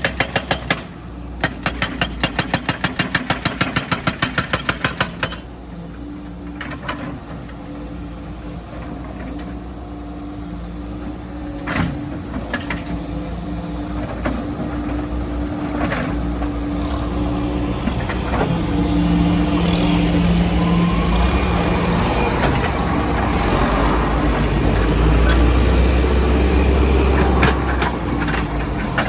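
Heavy machinery engine running, with a rapid, even clatter of pulses for the first five seconds, then a steady drone that grows louder toward the end, where the rapid pulsing returns.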